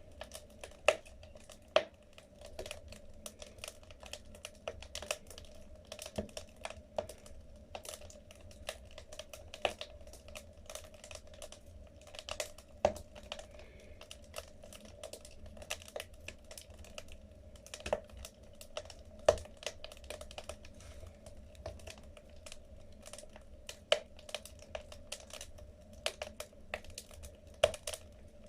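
Wood fire crackling in a fireplace: irregular sharp pops and snaps from the burning logs over a low steady hum, with a few louder pops.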